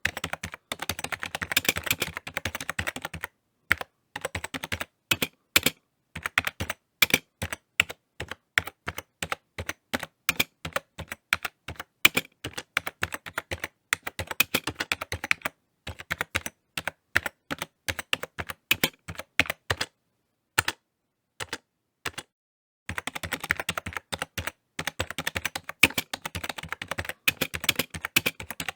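Typing on a computer keyboard: a rapid clatter of key clicks in uneven runs, separated by short pauses, with a break of a few seconds about two-thirds of the way through.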